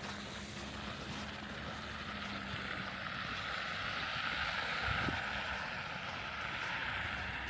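A vehicle driving past, its tyre and engine noise swelling to a peak about five seconds in and then easing off.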